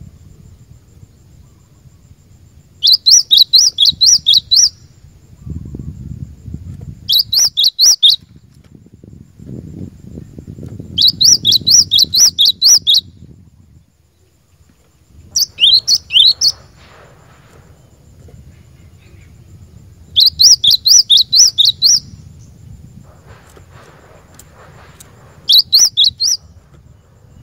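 Cinereous tit (glatik batu) singing: six phrases of rapid repeated high notes, each lasting one to two seconds, separated by pauses of a few seconds, over a faint low background rumble.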